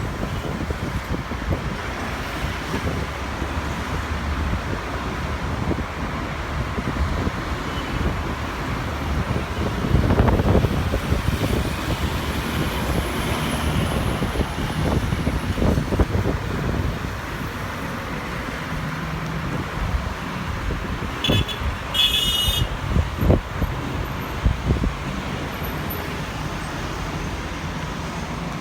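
Steady rumble of engines and traffic, with a few louder low swells through the middle and a brief high chirp about three-quarters of the way through.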